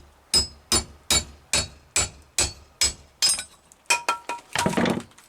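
A hammer strikes the hatchet head about nine times at a steady two to three blows a second, each hit ringing of metal, to knock the loose head off its handle. Near the end come a few lighter ringing metal clinks and a brief rattle.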